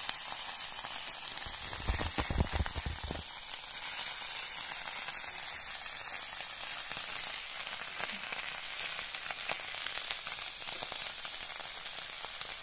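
Small fish sizzling as they fry on a black flat pan over a wood fire, with a metal spatula scraping and turning them. A few low thumps come about two seconds in.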